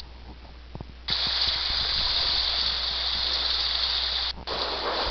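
A steady, loud rushing hiss of heavy rain comes in suddenly about a second in, cuts out for a moment near the end, and then resumes.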